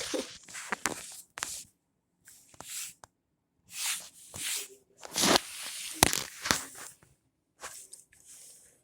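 Handling noise: irregular bursts of rustling with a few sharp knocks, the loudest about five to six seconds in.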